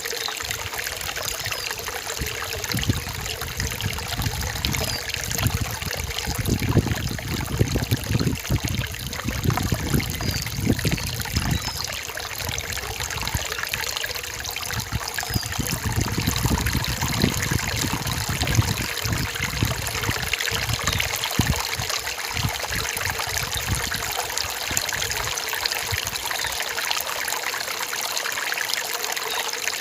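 Forest stream trickling and gurgling over rocks, steady throughout, with heavier low gurgling through the middle.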